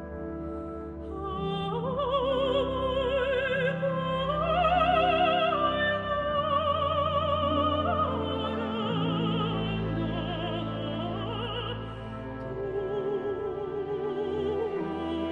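Mezzo-soprano singing with a wide vibrato over a sustained orchestral accompaniment. The voice enters about a second and a half in, after a few held orchestral chords.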